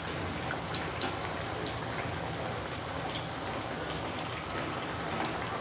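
Breaded chicken-and-potato cutlets shallow-frying in hot oil on medium heat: a steady sizzle with many small scattered crackles, the cutlets turned over and browning toward golden.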